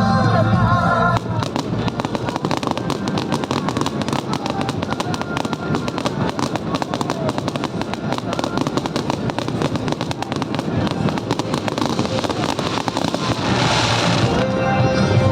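Fireworks going off in a rapid, dense string of crackling bursts, many a second, from about a second in until near the end. Music plays over the start and comes back near the end.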